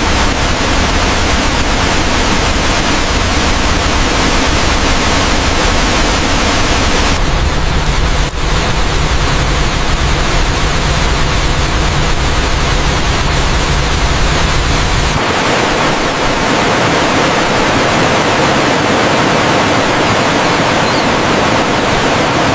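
Loud, steady rush of a waterfall, with its tone shifting abruptly twice, losing its deep rumble after the second shift.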